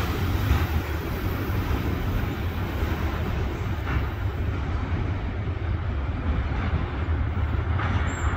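Freight train of high-sided trash cars rolling away on the track: a steady low rumble of wheels on rail, its higher hiss dropping away about halfway through as the cars recede.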